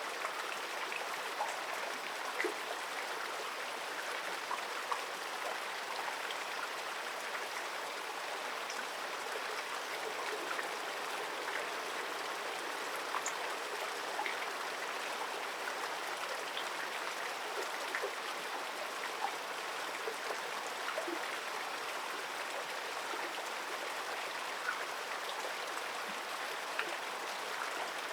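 Stream water running steadily, an even rushing babble sprinkled with small trickling splashes.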